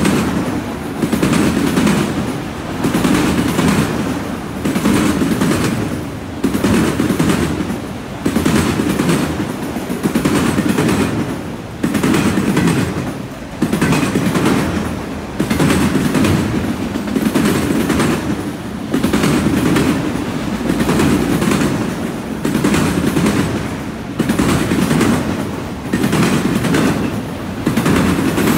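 Steel wheels of passing autorack freight cars clattering over the track: rapid runs of clacks over a rumble that swells and fades every second or two as each car's trucks go by.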